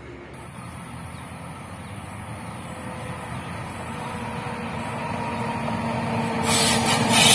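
Electric freight locomotive approaching and growing steadily louder, a steady hum with a few pitched tones in it. Near the end, as it draws close, a loud hissing rush comes in.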